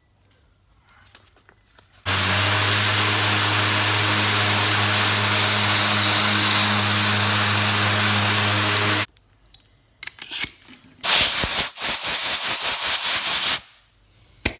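Belt sander running steadily for about seven seconds with a strong motor hum, smoothing down the sharp broken edges of a plastic bumper, then cutting off. A few seconds of choppy scraping follow near the end.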